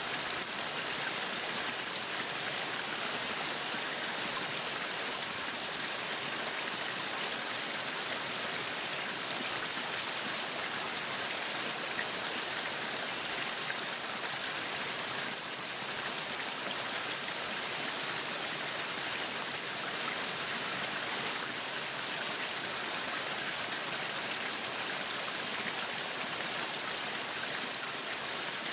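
Meat sizzling on a yakiniku grill: a steady sizzling hiss that keeps an even level throughout.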